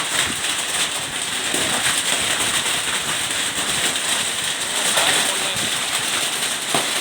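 Hailstones and heavy rain pelting down, a dense steady clatter with many sharp ticks of hail strikes.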